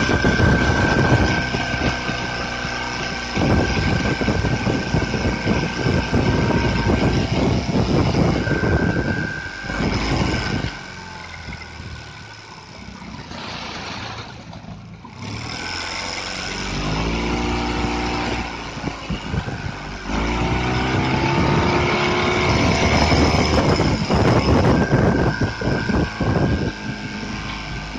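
Boat engine running under way with a high steady whistle from its new three-blade Solas propeller (pitch 11) at medium revs. The whistle drops out while the engine runs slower in the middle, and the engine revs up again after.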